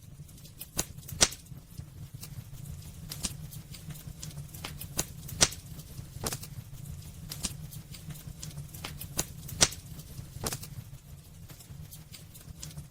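Wood fire burning in a fireplace: irregular crackles and snaps, with three louder sharp pops about a second in, midway and near the end, over a steady low rumble of the flames.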